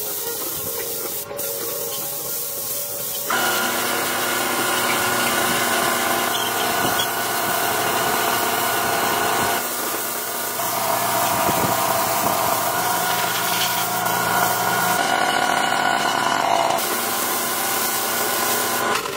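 Power tools running steadily during car body restoration work, with abrupt changes in pitch and character about 3, 10 and 17 seconds in.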